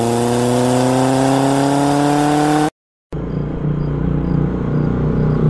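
Dubbed-in car engine sound revving, its pitch rising steadily, which cuts off abruptly under three seconds in. After a brief silence a rougher engine-like running sound with a regular pulse follows.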